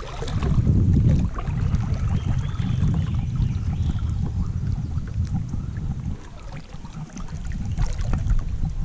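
Wind rumbling on the camera microphone over water splashing and lapping around a kayak underway, with scattered small clicks and drips.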